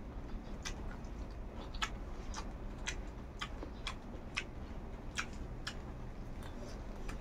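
Close-up eating sounds from a person chewing: a string of sharp, wet mouth clicks at irregular intervals, roughly two a second, over a low steady hum.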